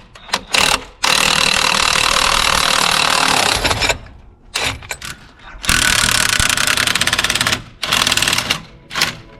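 Impact wrench hammering on a bolt to loosen it, in three bursts: a long one of about three seconds, then about two seconds, then a short one near the end.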